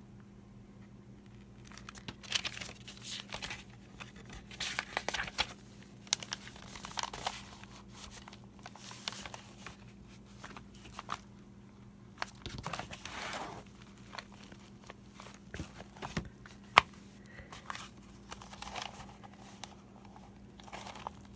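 Paper rustling and crinkling with scattered short clicks and taps, as holes are poked through a journal's paper pages with a button hook used as an awl. One sharp click stands out near the end.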